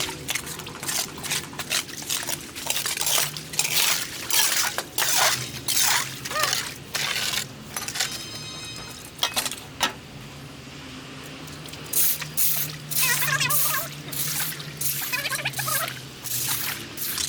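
Water splashing and pouring in irregular bursts, over a steady low hum, with a short run of fast even ticks about eight seconds in.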